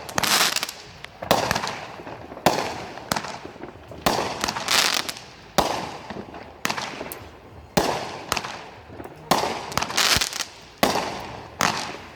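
Fireworks firing a steady string of shots, about one a second, each a sharp bang trailing off into a crackling, sputtering hiss.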